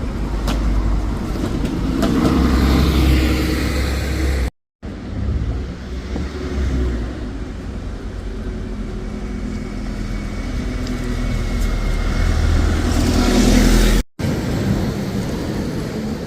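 Road traffic with motor vehicles running past, a low engine rumble that swells twice, about three seconds in and again near the end. The sound cuts out briefly twice.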